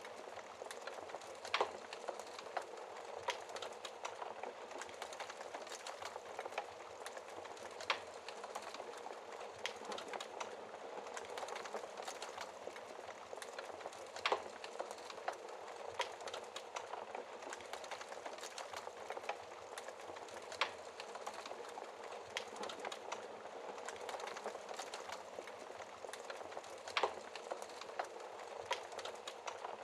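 Wood fire burning in a fireplace: a steady soft hiss of dense small crackles, broken by sharp louder pops every couple of seconds.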